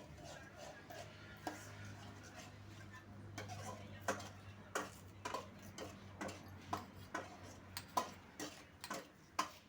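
Sharp taps or knocks, a few at first and then a steady run of about two a second from about four seconds in, over a low steady hum.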